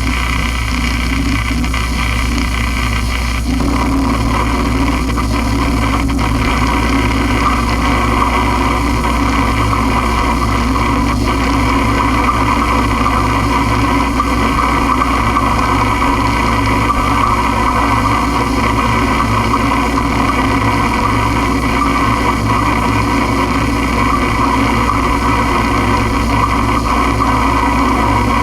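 Experimental noise music: a dense, unbroken wall of layered steady hums and hiss, like a machine drone, that thickens and brightens about three and a half seconds in and then holds.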